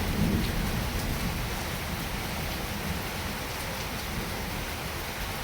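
Heavy rain falling steadily, an even hiss of rain on surfaces, with a low rumble dying away in the first second.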